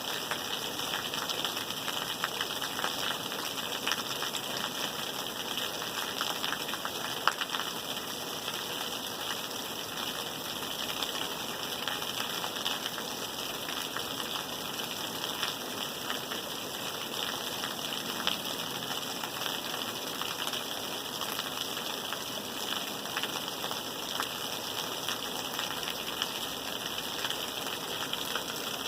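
Steady rain falling, a constant hiss dotted with the small ticks of individual drops, one sharper drop tick about seven seconds in.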